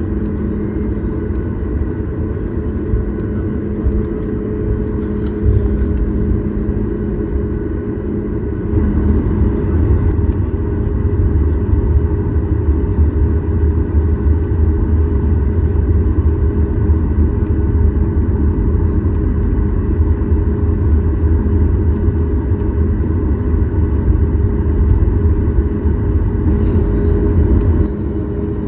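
Cabin noise inside a Boeing 737 MAX 8 taxiing: its CFM LEAP-1B engines run at low thrust with a steady hum, over a low rumble from the aircraft rolling along the taxiway. About eight or nine seconds in the low rumble grows louder, and it eases back just before the end.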